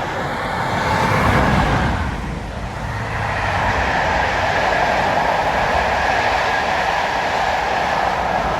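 A West Coast Railways train passes close by at speed. The sound is loudest about a second in, then settles into a steady rush of wheels on rail as the rest of the train goes by.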